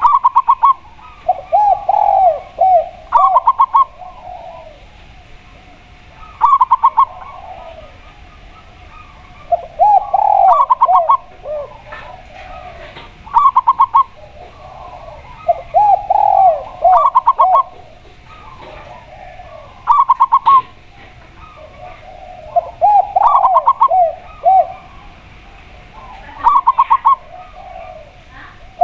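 A spotted dove and a zebra dove calling in turn. One gives a quick run of short, higher coos; the other gives a lower phrase of curved, throaty coos. The exchange repeats every three to four seconds.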